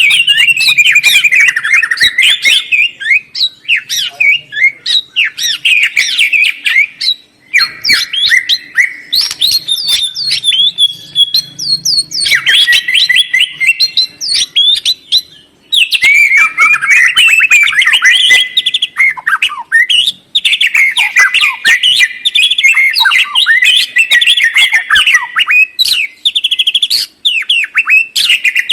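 Songbird singing a loud, fast, varied song of chattering and whistled notes, with short breaks about seven and fifteen seconds in.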